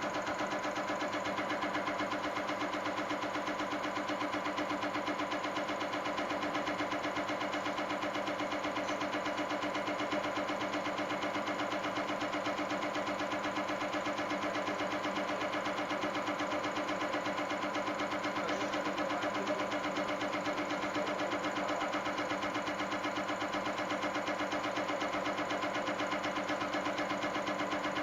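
Diesel injector test bench running a test on a Caterpillar C15 electronic unit injector: the motor-driven cam box pumps the injector in a steady, rapid mechanical rhythm at constant speed.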